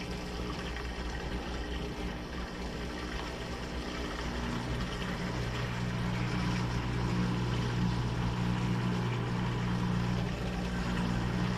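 Washing machine running mid-cycle: a steady motor hum over the rush of water, the hum growing louder about five seconds in.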